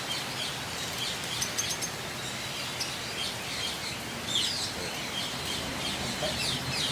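A flock of lovebirds chirping: many short, high chirps scattered and overlapping over a steady background hiss, with a few sharp ticks about a second and a half in.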